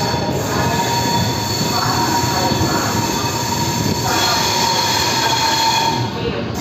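Passenger train coaches rolling out of a station, heard from an open coach door: a steady rumble of wheels on rail with a thin, steady high-pitched wheel squeal over it.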